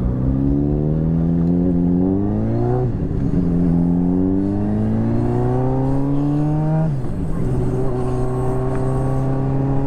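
Motorcycle engine accelerating through the gears: the pitch rises, drops at a shift about three seconds in, rises again, drops at another shift near seven seconds, then holds steady at cruising speed.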